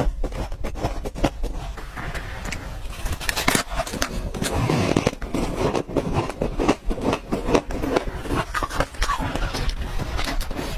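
Ice being bitten and crunched, making a rapid, irregular run of sharp cracks and crunches.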